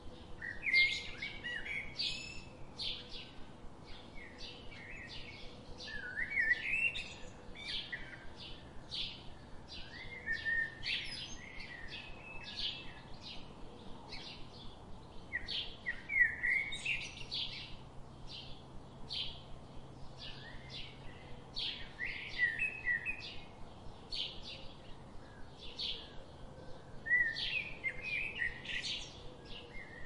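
Birds chirping and singing: a steady run of short high chirps about two a second, with louder warbled song phrases breaking in every few seconds.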